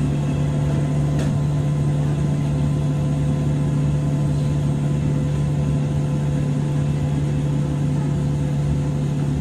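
Steady hum of a 103 series electric train heard from inside motor car MoHa 103-773, a low drone with fainter higher whines holding one even pitch. There is a single click about a second in.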